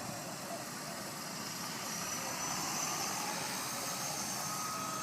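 Walkera EC135 RC helicopter's small electric motor and rotors running with a steady high whine over a rushing hiss, a little louder from about two seconds in. A second, lower whine joins near the end.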